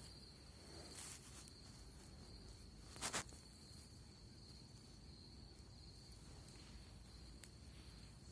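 Quiet night forest: a steady high insect trill, as of crickets, with two brief crackles about one and three seconds in.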